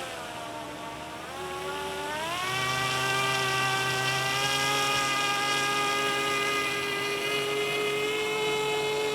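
Electric RC car motor driving a Lego boat's propeller, whining steadily. Its pitch rises in two steps in the first couple of seconds as the throttle opens, then holds.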